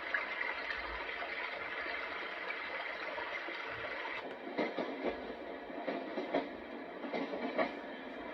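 Portable white noise machine's speaker playing one of its built-in soothing nature-style sounds: a steady rushing noise, joined about halfway through by irregular clicks and knocks that grow more frequent.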